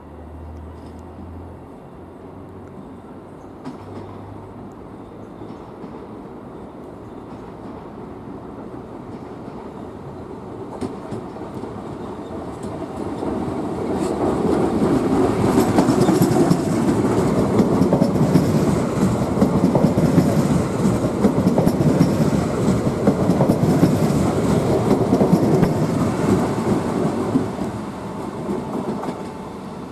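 A regional multiple-unit passenger train passing along the platform track: its running noise grows from about twelve seconds in, stays loud for over ten seconds as the cars go by, and fades near the end.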